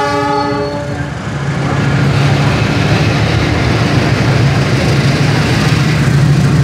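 CC 206 diesel-electric locomotive passing close by: its horn sounds and cuts off about a second in, followed by the steady drone of the diesel engine and the rumble of the tank wagons rolling past on the rails.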